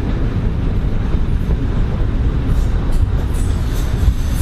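Heritage diesel multiple unit running along the line, heard from inside the carriage: a steady low rumble of engine and wheels on rail.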